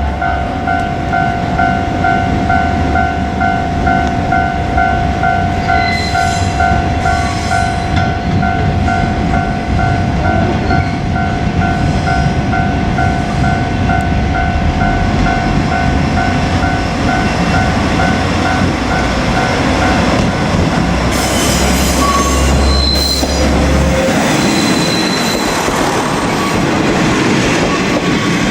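A KiHa 47-series diesel railcar passing a Japanese level crossing, its engine and wheels rumbling on the rails. The crossing's warning bell rings over it in a rapid, evenly repeating two-tone ding and stops about twenty seconds in.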